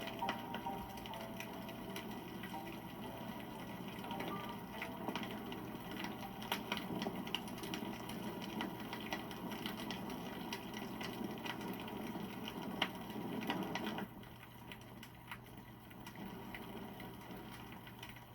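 Wood campfire crackling, with frequent sharp pops and snaps over a soft hiss and a steady low hum. The crackle thins out about fourteen seconds in and fades away near the end.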